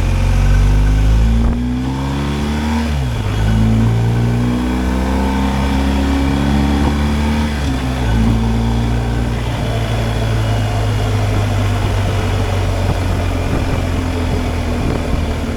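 BMW R 1250 GSA's boxer-twin engine running while the bike is ridden, its pitch dropping and rising with throttle changes, shifting down in a step about eight seconds in, over a steady rush of road and wind noise.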